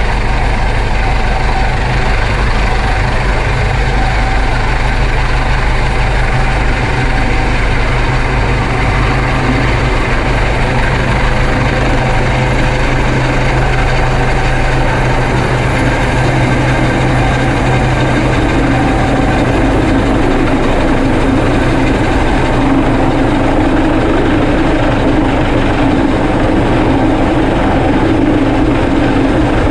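Steady, loud engine drone of a helicopter and boat working a hoist together. About two-thirds of the way through, the deepest rumble fades and a lower-middle hum grows stronger.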